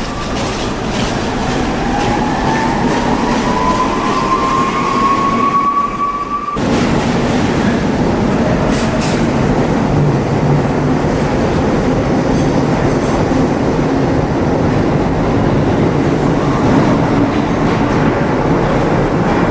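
Subway train pulling away, its traction motors whining and rising steadily in pitch. About six and a half seconds in, the sound changes abruptly to the steady rumble of a train running along the track.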